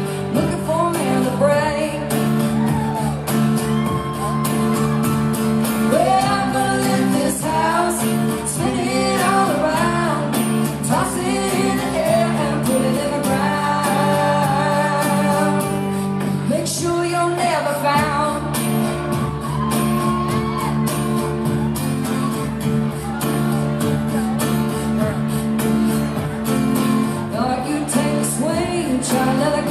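Live country music: a female singer singing over a band with guitar, in a large room.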